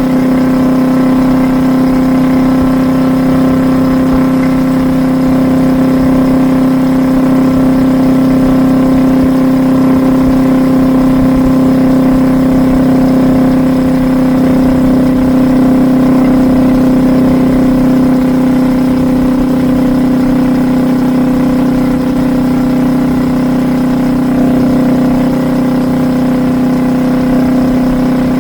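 Kawasaki Vulcan S 650's parallel-twin engine running through an aftermarket Truedual Valero twin-pipe exhaust, holding a steady note while cruising on the freeway.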